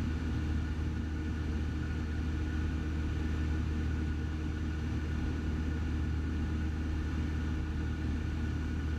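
Cessna 172's piston engine and propeller droning steadily in flight, heard inside the cockpit.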